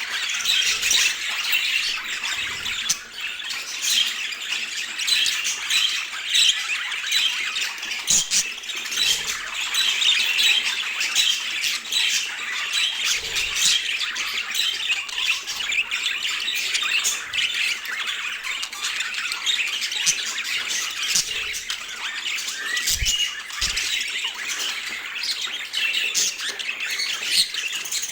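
Budgerigars chattering without pause, a dense stream of short chirps and squawks.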